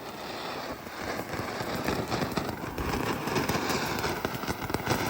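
A lit firework crackling, with many rapid small pops over a hiss. The crackle grows denser and louder from about a second in.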